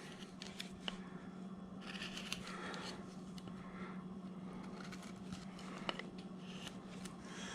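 Hand-held V-tool cutting into wood: faint scraping strokes with small clicks as chips are lifted.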